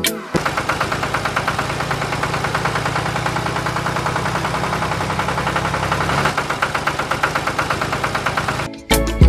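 Small engine running steadily with a fast, even pulse, its tone shifting about six seconds in. It starts just after the music stops and cuts off near the end.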